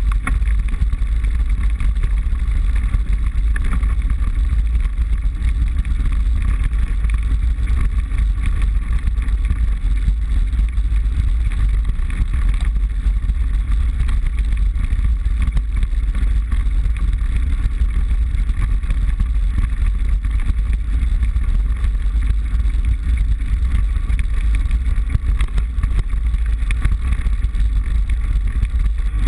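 Mountain bike being ridden, heard from a handlebar-mounted GoPro: a steady, loud rumble of tyres and frame.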